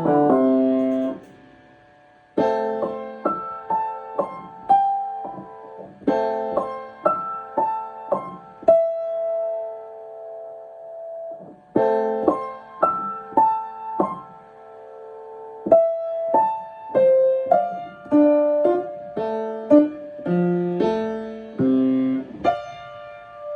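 Piano played in short phrases of separate notes. After a brief pause the phrase runs into one note held for about three seconds, then the same phrase is played again.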